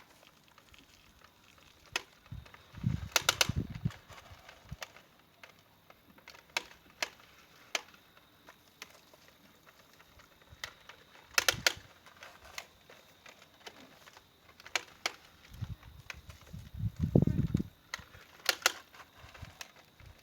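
Scattered sharp clicks and knocks, some in quick clusters, with two short stretches of low rumbling.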